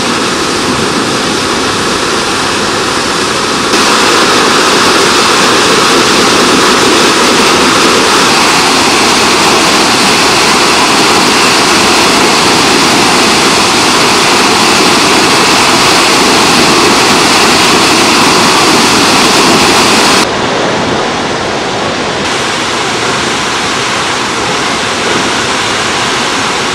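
Krimml Waterfalls' heavy falling water, swollen with snowmelt, making a loud, steady rushing roar. The roar grows louder about four seconds in and drops back at about twenty seconds.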